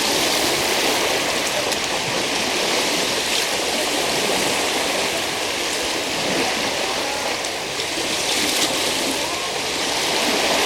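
Waves washing onto the beach: a steady, unbroken rush of water with only gentle swells in loudness.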